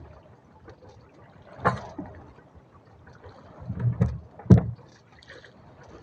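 Dull knocks and thumps on a small fishing boat, one about a second and a half in, a cluster around four seconds in and the loudest just after, over a faint steady background.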